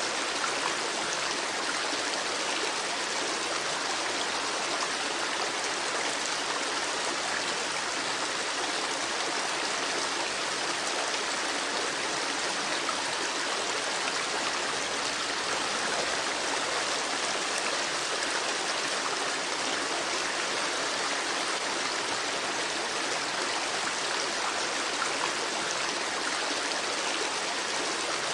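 Babbling creek: steady running water over stones.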